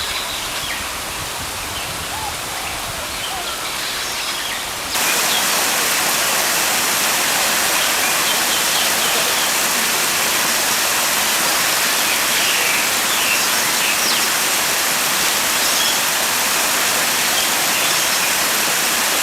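Steady rushing noise like falling water, with faint small bird chirps over it. The noise gets suddenly louder about five seconds in and then stays level.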